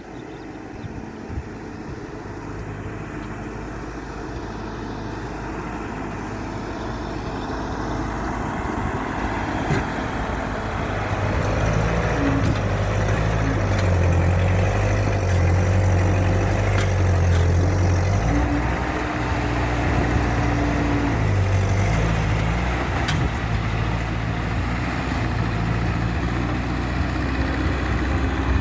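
Ford 8N tractor's four-cylinder engine running. It grows louder over the first ten seconds or so, then holds a strong, steady low engine note.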